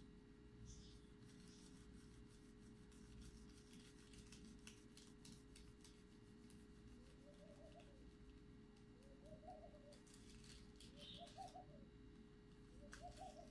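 Near silence with a steady faint electrical hum and scattered faint clicks and rustles. From about halfway, a bird coos faintly, a low rise-and-fall call repeated about once every second.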